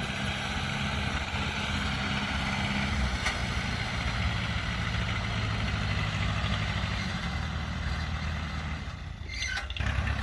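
Diesel engine of a tracked rice-harvesting machine running steadily in the field. Its note shifts slightly partway through and dips briefly near the end.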